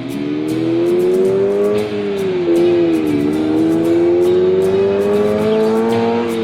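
A car engine accelerating: its pitch rises, drops about two to three seconds in as with a gear change, then climbs again, over guitar music.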